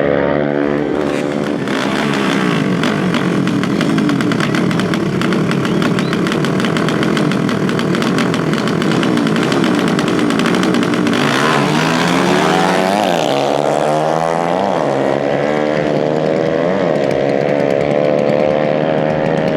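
Several dirt-bike engines revving hard, their pitches rising and falling and crossing one another. A louder rush about eleven seconds in, then pitches sweeping up and down.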